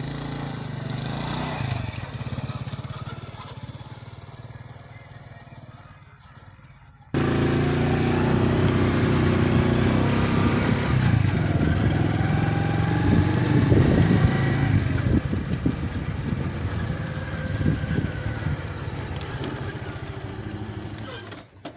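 A motor vehicle's engine running steadily, with a sudden jump to a louder, rougher sound about seven seconds in.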